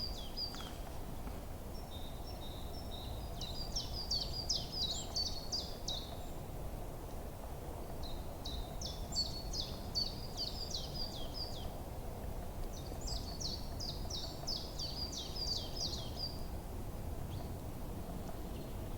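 A songbird singing a repeated phrase of rapid, high, down-slurred notes, three songs a few seconds apart, over a steady low background rush.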